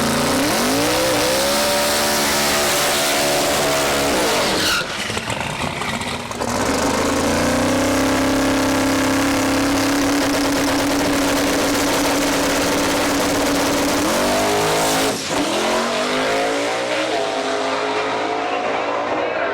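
Twin-turbocharged 400 cubic inch small-block Ford V8 of a drag-race pickup revving up and held at high, steady revs, with tyre squeal. The revs drop briefly twice and climb again, and one steady rev hold lasts about seven seconds.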